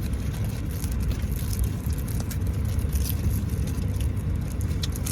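Steady low rumble of a running car heard from inside its cabin, engine and road drone with no change in pitch.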